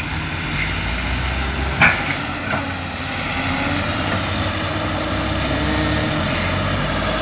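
Truck engine running steadily at low revs, with a sharp knock a little under two seconds in and a smaller one shortly after.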